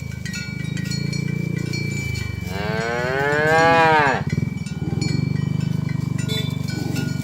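Cattle mooing: low, drawn-out lowing throughout, with one loud, long moo that rises and then falls in pitch about two and a half seconds in.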